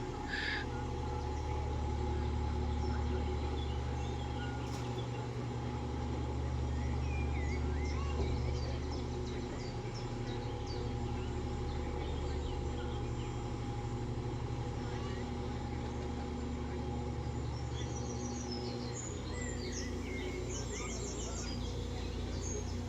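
Narrowboat's diesel engine running steadily, its low drone shifting a few seconds before the end, with birds chirping and singing over it.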